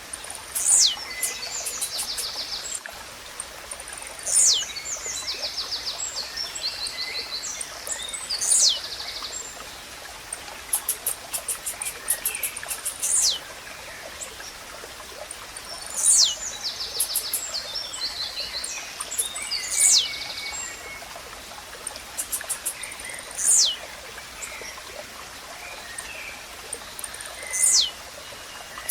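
Blue-black grassquit (tizil) singing: a sharp, high note sweeping downward, repeated about every four seconds. Bursts of rapid ticking and other small birds' twitters sound between the notes, over the steady noise of running water.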